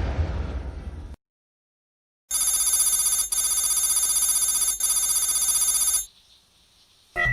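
An electronic ringing tone, like a phone ringtone, trills steadily for nearly four seconds with two brief breaks. A fading whoosh comes before it at the start.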